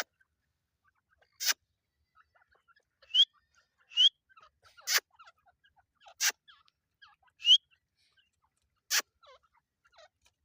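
Teetar (francolin) giving a string of short, sharp calls, about seven in all, one every second or so, some with a quick rising note.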